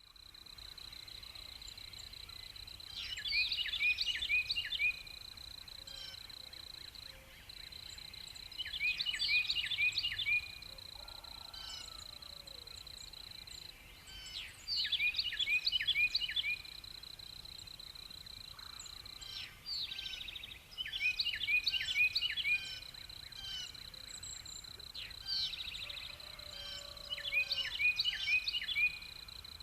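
A songbird singing the same short, quick phrase of repeated high notes over and over, about every five to six seconds, over a steady high-pitched whine.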